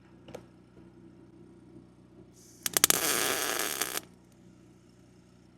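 A short arc-welding tack on a steel gate picket: about a second and a half of loud, steady crackling from the arc, starting a little past halfway and cutting off suddenly.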